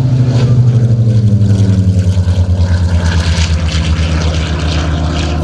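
Curtiss SB2C-5 Helldiver's Wright R-2600 fourteen-cylinder radial engine and propeller passing low and slow. It is loudest about a second in, then its pitch falls steadily and the sound slowly fades as the plane goes by.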